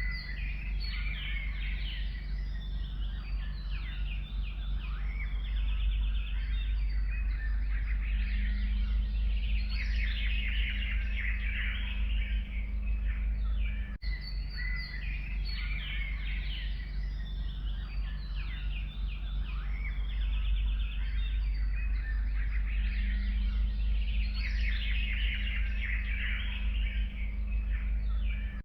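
Forest songbirds singing, a dense mix of chirps and trills, over a steady low rumble. The same stretch of about fourteen seconds repeats from about halfway in, as a loop.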